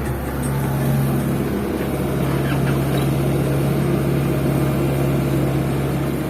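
Diesel engines of a Hitachi excavator and an Isuzu Elf dump truck running steadily at a loading site, a continuous low drone.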